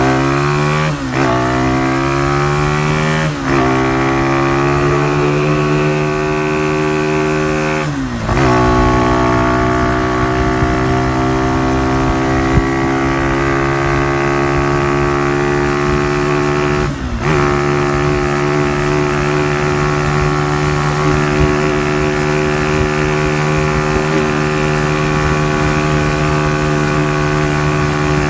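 Honda CY50/80's small four-stroke single-cylinder engine running through an aftermarket exhaust. The note breaks off briefly several times in the first part, each time shifting in pitch, then holds one steady even note.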